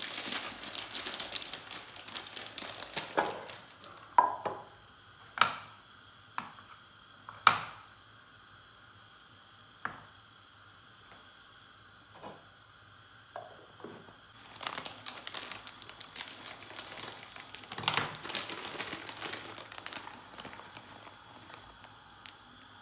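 Packaging crinkling as it is handled, in two spells with a few sharp knocks between them.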